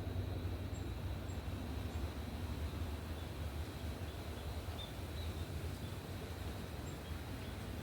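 A steady low rumble, with a few faint, short chirps of small birds scattered through it.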